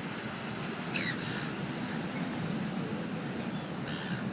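Seagulls calling briefly, twice: a short call that slides down in pitch about a second in and another near the end, over a steady outdoor background hiss.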